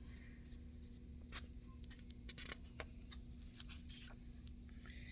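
Quiet room tone with a faint steady low hum and a few soft, short clicks.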